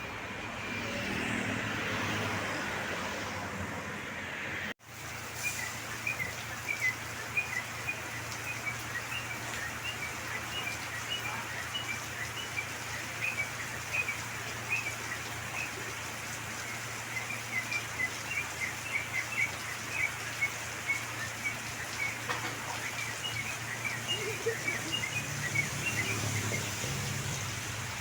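Birds chirping: many short, high chirps scattered over a steady low hum. The first few seconds hold road noise, which breaks off abruptly before the chirping starts.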